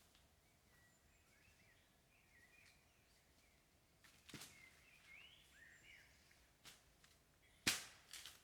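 Small birds chirping and twittering in short rising and falling calls, with a few sharp clicks, the loudest near the end.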